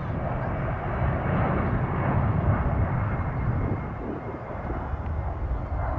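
Jet aircraft engines passing, a deep rumble with a rushing hiss that swells to its loudest about two and a half seconds in, then eases off.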